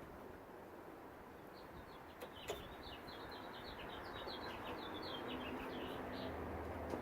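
A small bird singing in the background: a quick run of short, high chirps lasting a few seconds. A single sharp click comes about two and a half seconds in.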